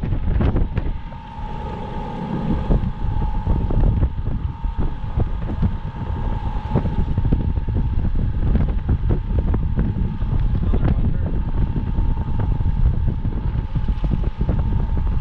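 Boat's outboard motor running steadily, with a thin steady whine above it, under heavy wind buffeting on the microphone.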